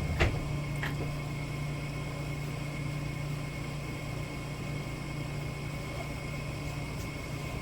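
A steady low hum in a small room, with two light clicks in the first second as parts of the hydraulic drive motor are handled.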